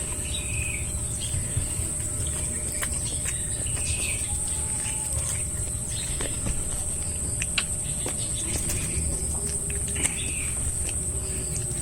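A steady high-pitched insect trill, with short bird chirps now and then and a few small clicks.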